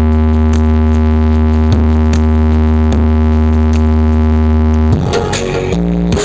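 Electronic DJ music played loud through a large outdoor 'horeg' stacked sound system: a heavy held bass note and synth chord for about five seconds, then the notes shift near the end.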